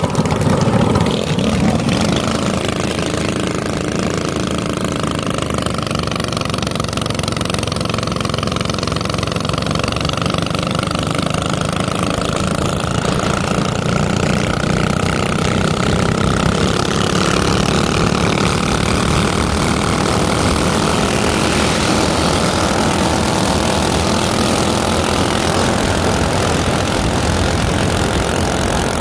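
Minibike's small engine running steadily, a little louder for the first two seconds.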